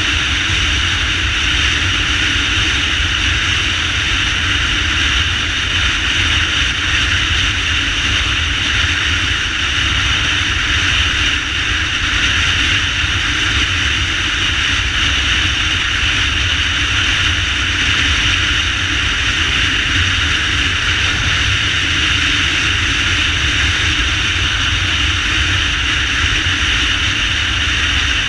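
Motorcycle ridden at steady speed: constant wind rush over the microphone with a low engine rumble beneath it.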